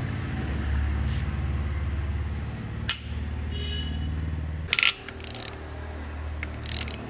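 A motor running steadily with a low hum, with sharp metallic clicks and clinks on top, the loudest a little under five seconds in.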